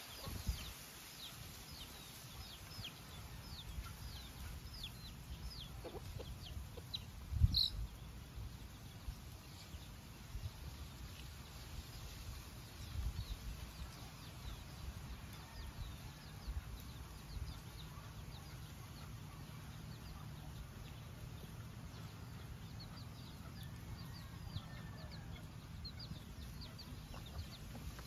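Small birds chirping in scattered short, high, falling notes, thickest in the first several seconds and again near the end, with one louder chirp about seven seconds in. A low steady rumble lies underneath.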